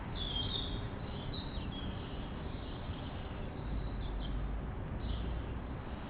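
Small garden birds giving several short, high chirps over a steady background hiss.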